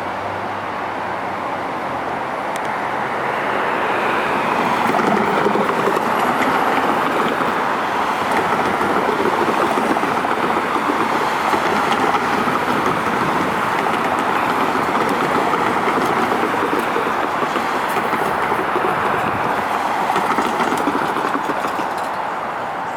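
Sacramento Regional Transit light rail train passing: a steady rumble and hiss of wheels on rail that builds over the first few seconds and eases off near the end.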